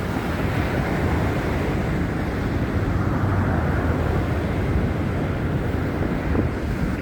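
Wind buffeting a phone's microphone: a steady, uneven rumble with no distinct events.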